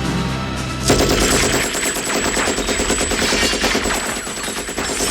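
Film soundtrack music giving way, about a second in, to long sustained bursts of automatic machine-gun fire, rapid and unbroken, as an M60 machine gun sprays a room full of computer equipment.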